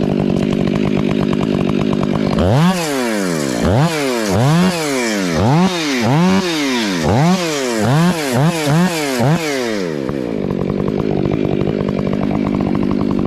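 Chainsaw idling, then revved up and let back down in about ten quick bursts over several seconds, then settling back to idle.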